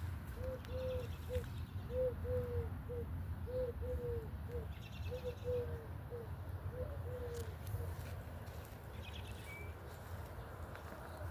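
A dove cooing in about five repeated phrases of two or three low notes, the last note of each short. The cooing stops about three-quarters of the way through. A small bird chirps faintly now and then over a steady low rumble.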